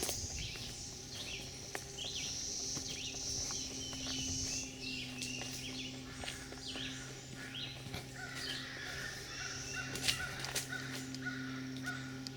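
Birds calling repeatedly, a run of short harsh caw-like calls with other birds and insects in the background, over a steady low hum.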